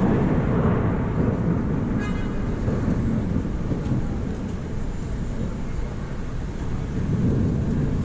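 Thunderstorm noise on a city street: a steady low rushing of wind and rain.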